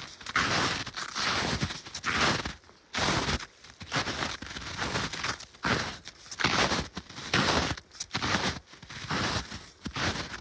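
Footsteps crunching in snow at a steady walking pace, roughly one step every three-quarters of a second.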